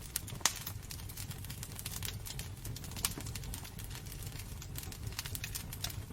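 Wood fire burning in a fireplace, crackling with irregular sharp pops over a low steady rumble; the loudest pops come about half a second in and near three seconds.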